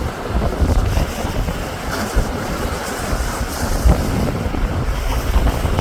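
Strong gusting wind buffeting the microphone, mixed with the wash of high lake waves.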